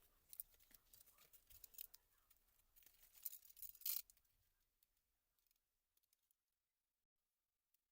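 Faint small clicks and scrapes of laptop keyboard parts being handled and prised apart, thickest in the first four seconds with the sharpest click just before the four-second mark, then only a few scattered ticks.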